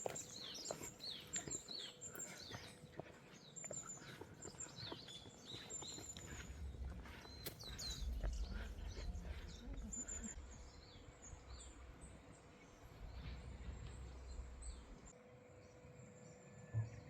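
Wild birds chirping outdoors, many short calls and quick falling whistles overlapping, thinning out after about ten seconds. A low rumble runs underneath in the middle.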